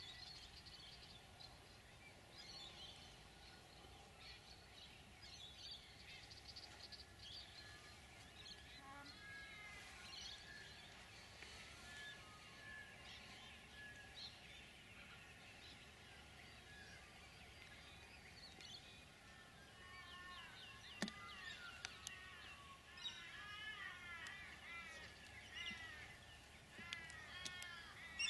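Faint birdsong: many short chirping calls from several birds over a quiet outdoor background, growing busier in the last third. A single sharp click about three-quarters of the way in.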